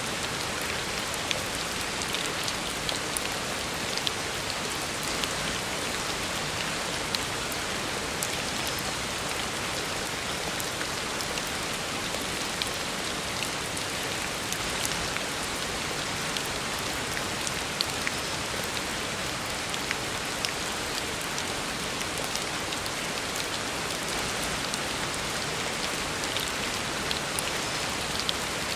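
Heavy rain falling steadily on a road surface: a constant hiss with scattered sharper drop ticks.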